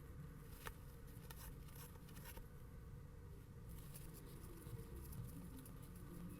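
Faint scratching and a few light ticks, over a low rumble.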